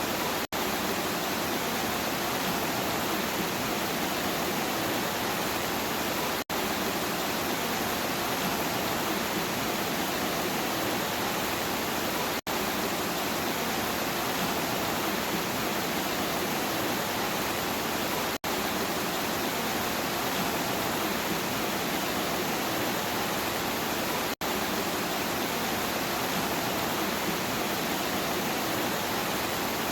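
Steady rain, an even hiss with no separate drops standing out. It cuts out for an instant about every six seconds, where the recording loops.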